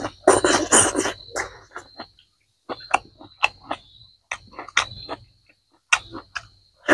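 Close-up wet chewing, lip-smacking and biting sounds from a person eating with their hands, in irregular bursts with short pauses. A steady high insect trill, like crickets, runs behind it.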